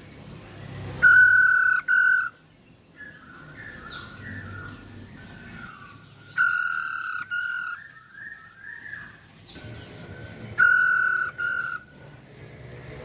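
Female masked laughingthrush calling: three loud, harsh double calls about four to five seconds apart, with softer chattering notes in between.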